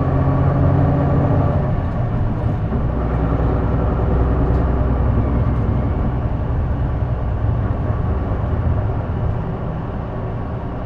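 Cabin sound of a J-Bus diesel city bus under way: the engine drones steadily over road noise. Its note shifts about two seconds in, a deep drone is strongest through the middle, and it eases a little near the end. This bus makes an odd noise that the uploader places around the exhaust or turbo.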